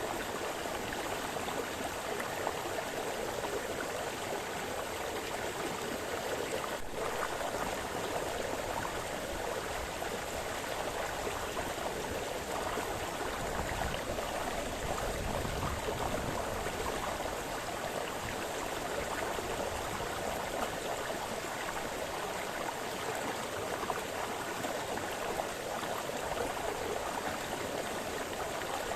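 Brook water splashing and burbling steadily.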